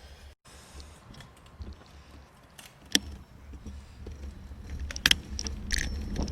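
Bicycle rattling as it rides: a few sharp metallic clicks and a short jingle, with wind on the microphone growing louder near the end.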